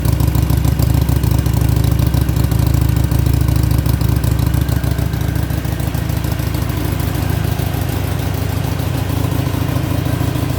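2014 Harley-Davidson Iron 883's air-cooled 883 cc V-twin idling steadily through its stock exhaust.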